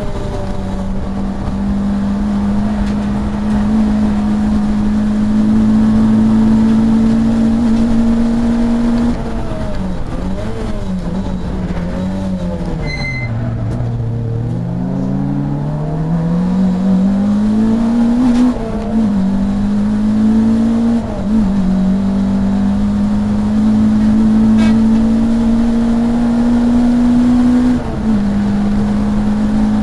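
Saloon race car's engine heard from inside the car at racing speed: the note holds high and steady, then falls away through downshifts under braking from about nine seconds in and bottoms out around fourteen seconds. It climbs again through the gears, with quick upshift dips near 18, 21 and 28 seconds. A short beep sounds about 13 seconds in.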